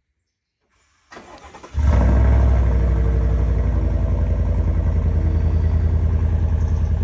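2020 Chevy Silverado Trail Boss's 5.3-litre V8 cold-starting through its stock exhaust and factory muffler: the starter cranks briefly about a second in, then the engine catches with a loud flare and settles into a steady idle.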